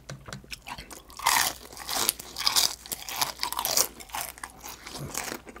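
Close-miked crunching and chewing of crispy deep-fried chicken skin: a quick run of irregular crunches, loudest in the middle and thinning out toward the end.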